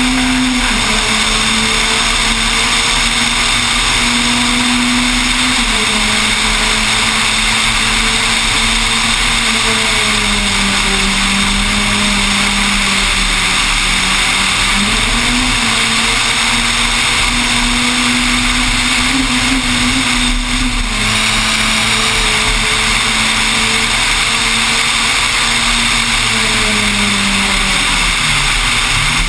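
Peugeot 206 rally car engine running hard under load, its pitch rising and falling with throttle and gear changes, over steady wind and road noise. The revs dip briefly about two-thirds of the way through and drop again near the end.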